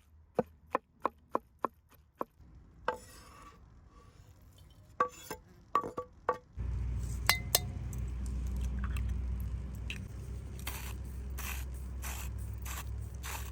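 Knife chopping on a board, about three even strokes a second, then scattered clinks and a scrape of kitchenware. About halfway a steady low rumble sets in abruptly, with a few sharp clicks and swishes over it.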